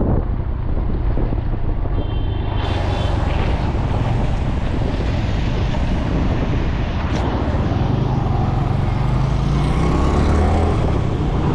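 Wind buffeting the microphone of a moving motorcycle, a steady low rumble with road and engine noise mixed in.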